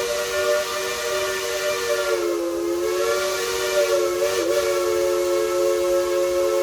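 Steam whistle of Baldwin steam locomotive #70 'Cinderella', blown long and steady as a three-note chord over a hiss of steam. The pitch sags briefly about two seconds in and again about four and a half seconds in as the whistle is worked.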